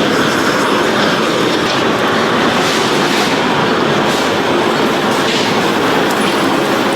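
Loud, steady machinery noise in a metalworking factory, running without a break.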